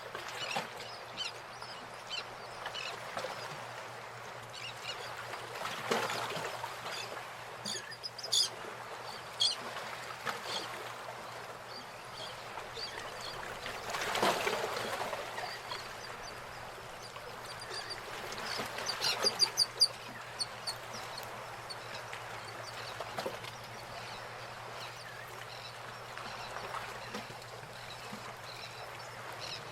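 Birds calling and chirping over a steady rushing background, with a quick run of repeated calls about two-thirds of the way in.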